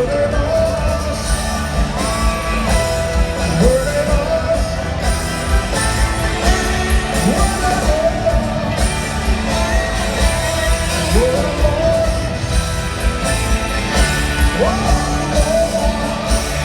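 Live rock band playing an instrumental passage in a large venue: a lead line slides up into long held notes again and again over steady drums and bass.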